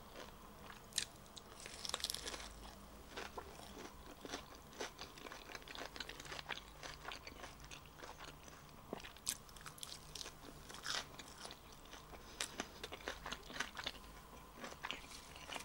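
Close-up crunching and chewing of a crisp lettuce leaf wrapped around a breaded fish stick and dipped in creamy garlic sauce, as a run of short, irregular crunches.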